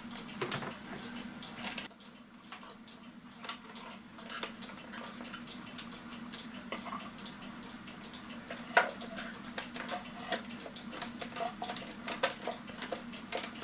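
Light, irregular metallic clicks and rattles of a cuckoo clock's weight chain being worked around its sprocket wheel in the movement, with a few sharper ticks, more of them near the end.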